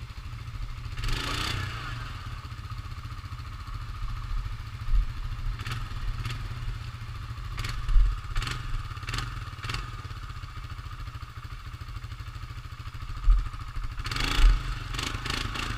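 ATV engine running steadily, with a string of sharp knocks and clatter from the machine about halfway through and again near the end.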